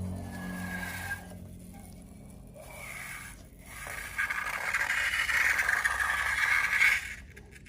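Scraping, squishing noise of slime being worked and stirred in a container, growing louder about four seconds in and stopping abruptly near the end.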